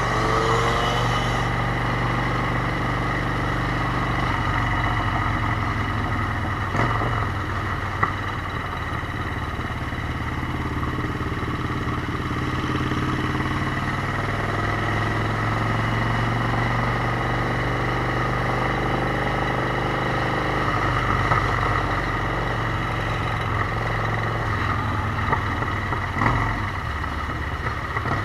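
Motorcycle engine running under way, its pitch slowly rising and falling, with a few brief knocks.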